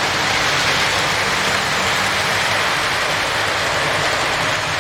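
Lionel post-war O-gauge model train, a Santa Fe locomotive pulling eight cars, running around the track: a steady rushing rumble of metal wheels on rail with a faint motor hum underneath. This running noise is loud enough to drown out the boxcar's built-in engine sound.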